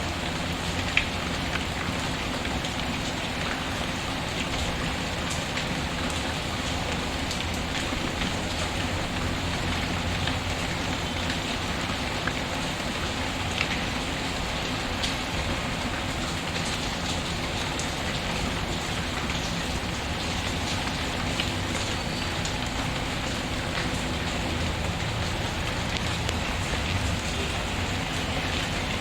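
Steady rain falling, an even hiss, with a few sharp pops of crackling firewood in a fireplace scattered through it.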